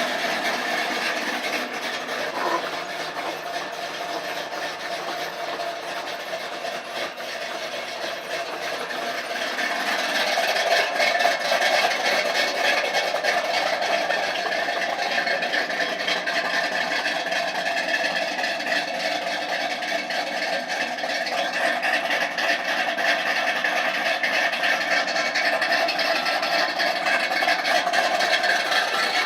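Chevy 305 small-block V8 with stainless headers and a 3-inch exhaust through welded mufflers, idling steadily just after startup; it grows louder about ten seconds in.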